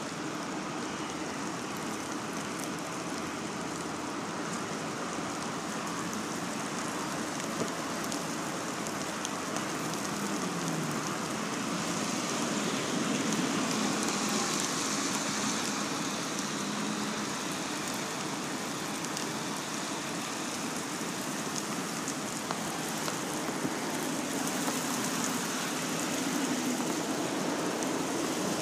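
Steady rain falling, a continuous hiss that swells a little near the middle.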